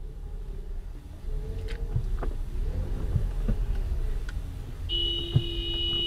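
Road and engine rumble from a moving car, picked up by a dashcam, with a few sharp knocks. Near the end a steady high electronic tone sounds for about a second and a half.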